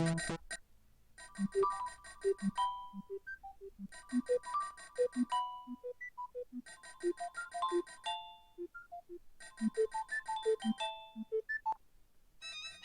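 Nokia 3560 mobile phone ringtone: a short electronic melody with a bass line under it, one phrase played four times over. The previous ringtone cuts off just at the start and another one begins near the end.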